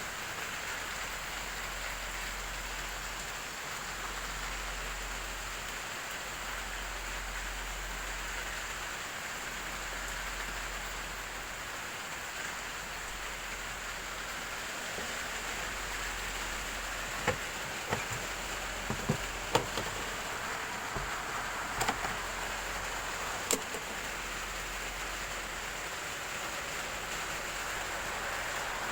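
Steady rain falling, an even hiss throughout, with a handful of sharper taps clustered in the middle stretch.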